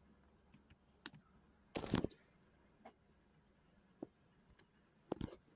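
Faint, irregular clicks and taps, like keys being pressed, with a short louder clatter about two seconds in and a few more clicks near the end.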